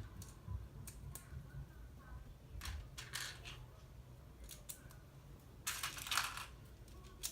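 Plastic LEGO pieces clicking and rattling as they are handled, with short rustles around three seconds and six seconds in.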